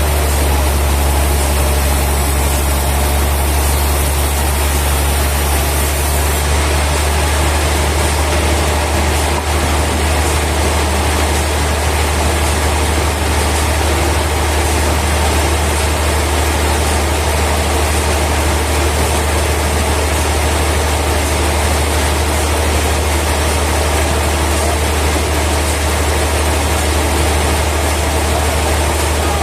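Heavy sawmill machinery running steadily, a loud, even low hum under a wide mechanical din.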